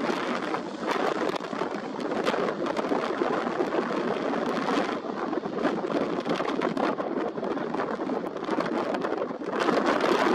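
Airliner jet engines at high power as the aircraft goes around after a hard touchdown: a steady rough noise with many crackles.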